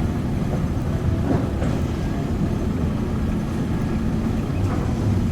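Diesel engine of heavy construction machinery running steadily with a low rumble.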